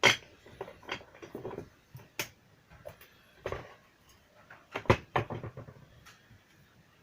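Irregular clicks, taps and knocks of hard objects being handled, with a sharp knock at the start and another about five seconds in.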